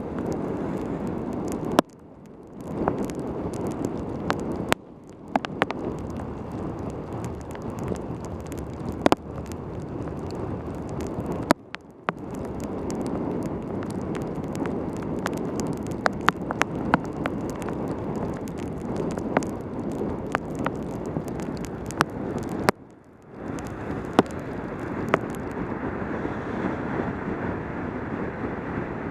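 Wind rushing over a helmet camera's microphone on a fast mountain-bike descent in pouring rain, with many scattered sharp ticks. The rush cuts out suddenly for a moment four times.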